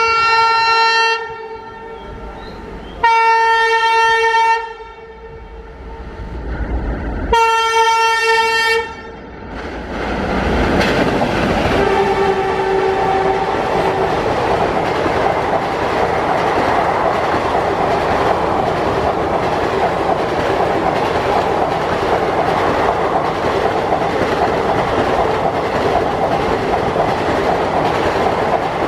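Alco diesel locomotive sounding its horn in three long blasts, then the train passing at speed, its ICF coaches rushing by with steady wheel-on-rail clatter.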